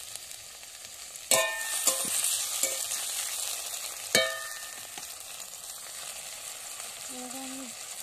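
Onions and chopped tomato sizzling in hot oil in a metal kadai as they are stirred. A metal stirrer strikes the pan twice with a ringing clang, about a second in and again about four seconds in, with a few lighter scrapes and knocks between.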